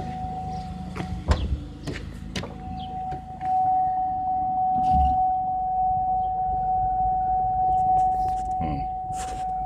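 Car idling in drive on jack stands with the front wheels off, its front hubs and axles spinning freely: a steady high whine over a low drivetrain hum, as a test to find the side with a bad wheel bearing or CV joint. A few sharp clicks and clunks come about a second in, the whine drops out briefly, and there is a dull thump about five seconds in.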